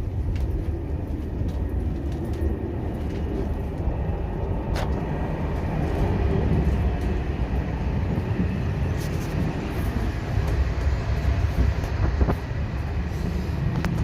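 Italo high-speed train noise: a steady low rumble with a few sharp clicks.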